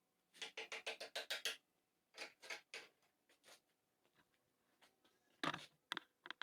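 A quick run of about ten sharp taps or knocks, a few more a moment later, and one louder knock near the end.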